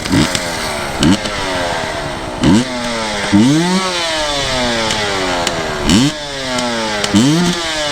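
Dirt bike engine revved in about six sharp blips, each falling back to a fast idle. The bike has just gone down in a creek and is clearing water out of its exhaust pipe.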